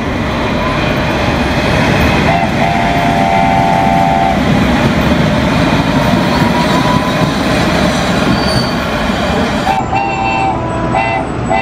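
Bullet train running with a loud, steady rushing noise; its horn sounds a chord for about two seconds near the start, and then in several short toots near the end.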